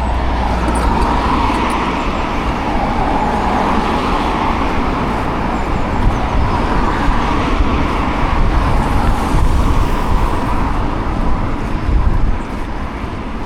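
Steady road and traffic noise heard from a moving e-bike, with a constant low rumble underneath.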